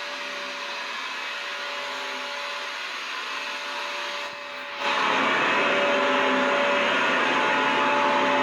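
Vacuum cleaner running steadily: a dense hiss of rushing air over a motor whine. About four seconds in it dips briefly, then comes back noticeably louder and fuller.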